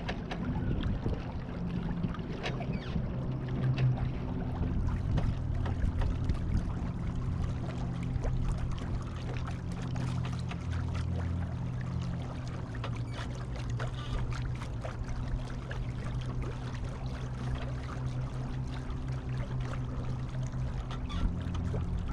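Water splashing and rushing along the hull of a Beneteau First 20 sailboat under way, with many small splashes over a steady low hum.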